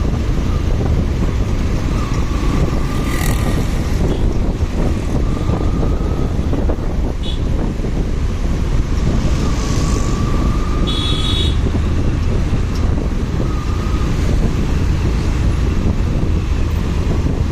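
Wind rushing over a motorcycle rider's microphone on the move, over the bike's engine and road traffic. A short, high-pitched beep sounds about eleven seconds in.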